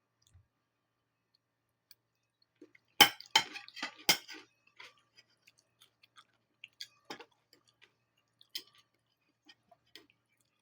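Chewing and eating egg with onion: a cluster of loud crunchy, smacking bites about three seconds in, then scattered small wet mouth clicks.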